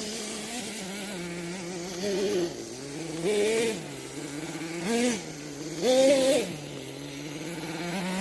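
Small nitro engine of a Kyosho Mad Force RC monster truck idling with a steady buzz, its idle set a little too high, settling lower twice, with four short throttle blips that rise in pitch and fall back.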